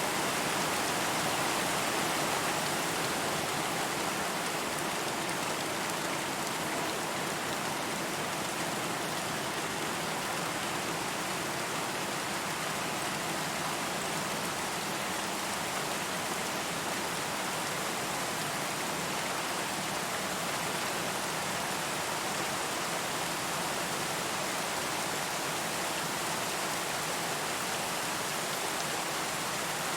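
Steady rain falling, an even hiss of many drops with no distinct patters or thunder.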